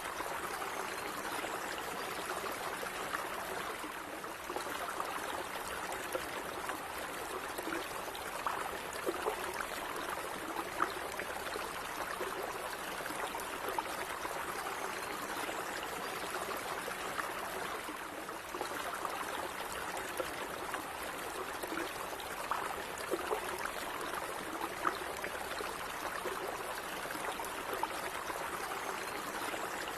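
Calm running water of a small stream, a steady flowing rush with frequent small splashes and gurgles.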